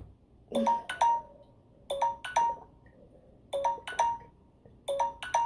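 Electronic timer alarm going off: a two-stroke chime, each stroke a clear ringing tone, repeating in pairs about every second and a half, marking that the set time is up.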